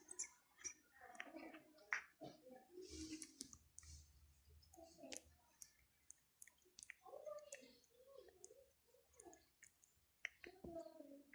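A parrot making quiet beak clicks and soft, wavering low mumbling sounds.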